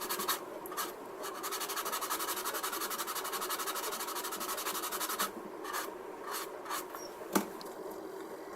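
Sandpaper rubbed rapidly back and forth over the plastic seam of a scale model kit, sanding it smooth; the strokes stop about five seconds in, followed by a few light scrapes and a single sharp click.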